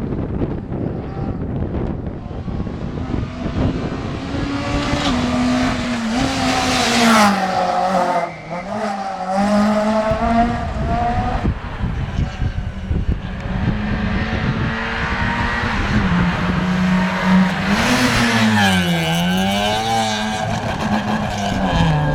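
Rally car engine revving hard on a stage, its pitch climbing and dropping again and again through gear changes and braking, with a brief lift off the throttle about eight seconds in.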